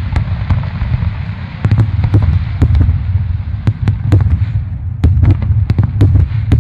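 Aerial fireworks shells bursting in quick succession: a continuous low booming rumble with many sharp cracks on top.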